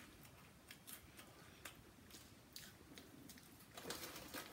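Near silence with faint chewing and mouth clicks from someone eating, a few soft ticks spread out and a little louder near the end.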